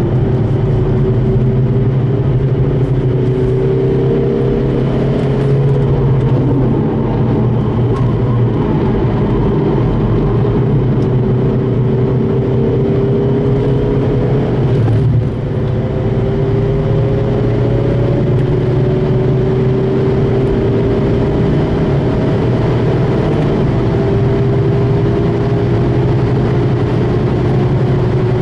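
VW Golf Mk5's remapped 2.0 TDI diesel engine running hard under load on a race track, with a short break about halfway through, then a slow steady rise in pitch as it pulls.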